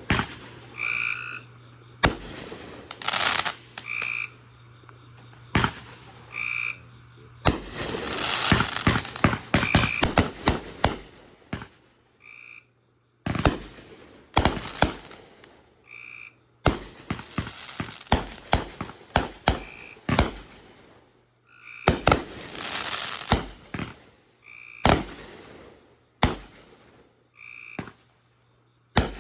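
Backyard fireworks going off: a string of sharp bangs and clusters of crackling bursts, several coming in quick succession. Between them a short high-pitched call repeats every second or two.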